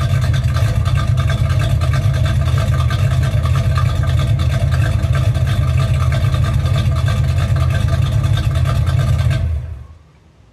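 Mildly cammed Chevy 305 small-block V8 idling steadily through shorty headers, 2.5-inch exhaust and an X-pipe. The engine sound stops abruptly about nine and a half seconds in.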